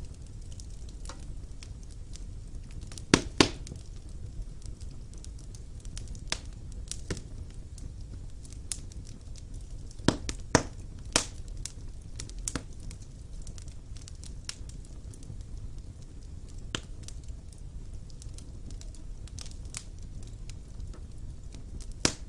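Wood fire burning in a fireplace: a steady low roar of the flames with sharp, irregular crackles and pops of the burning logs, a few louder pops about three seconds in and a cluster of them around ten seconds in.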